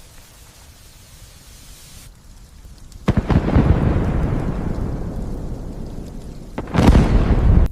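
Light steady rain, then a sudden loud thunderclap about three seconds in that rumbles and slowly fades. A second loud crack of thunder comes near the end and cuts off abruptly.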